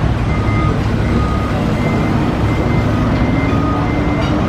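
Heavy truck engine running with a steady rumble, its pitch rising slightly about halfway through, while short warning beeps repeat over it.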